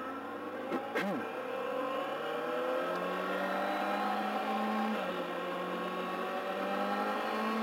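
2009 Kawasaki ZX-6R's inline-four engine pulling with its pitch rising slowly for several seconds, then dipping slightly about five seconds in and holding steady, heard through a helmet microphone.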